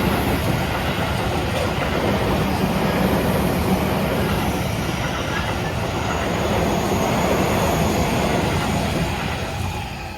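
Seibu 30000 series electric commuter train passing over a level crossing: a steady noise of wheels running on the rails that dies away near the end.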